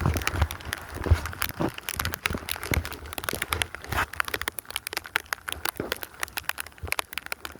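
Dense, irregular crackling and rustling close to the microphone, many small clicks a second, with a few soft low thumps near the start.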